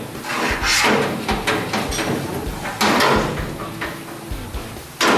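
Sheet-metal floor panel being handled and test-fitted into an old car's body shell: a series of metal knocks, clatters and scrapes, the loudest about three seconds in and right at the end.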